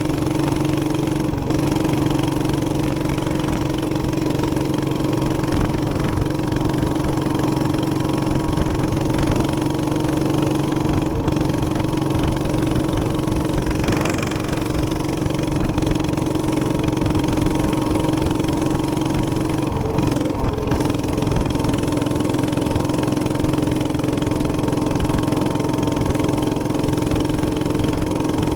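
Minibike's small single-cylinder gas engine running steadily at an even pitch, with a slight dip in pitch about twenty seconds in.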